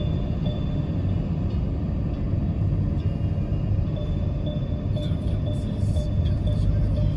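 Steady low road and engine rumble inside a moving vehicle, with faint light ticks and hiss joining near the end.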